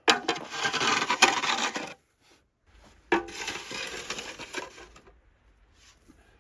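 Shovel pushed through snow: two long crunching, scraping strokes, the second starting about three seconds in.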